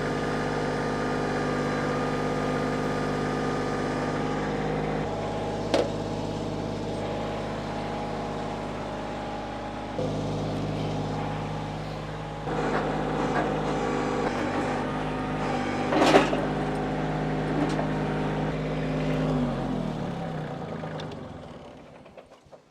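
Engine of a machine running steadily, its note shifting a few times with load, with two sharp knocks. Near the end it is shut off and spins down, the pitch falling and fading out.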